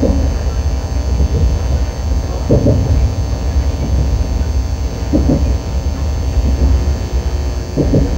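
Steady low rumble of a KTX train heard from inside the passenger car as it rolls along, with a soft knock about every two and a half seconds.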